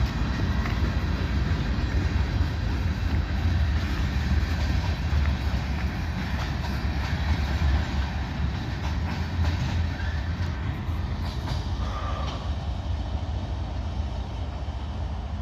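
Switcher freight train rolling past: a deep, steady diesel rumble with wheels clicking over the rail joints, slowly easing off.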